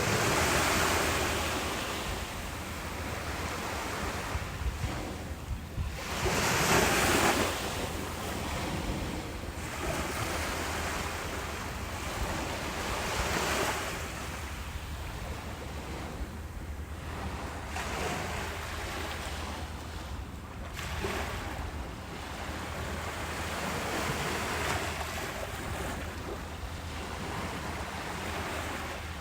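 Ocean waves breaking and washing on a beach, the surf swelling and easing every few seconds, with the strongest breakers about a second in and about seven seconds in. A steady low rumble of wind on the microphone runs under the surf.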